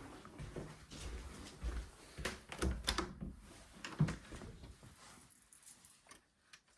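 Footsteps and scattered light knocks, irregular, dying away near the end.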